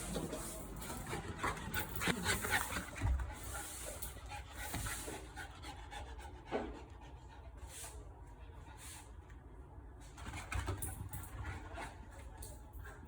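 A small dog, a bichon frise, panting, with scattered clicks and rustles that are louder and busier in the first five seconds.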